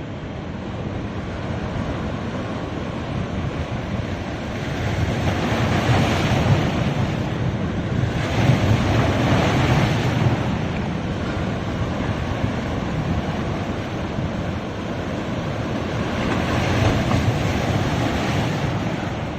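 Ocean waves breaking on a beach, the surf swelling and washing in about three times, with some wind noise on the microphone.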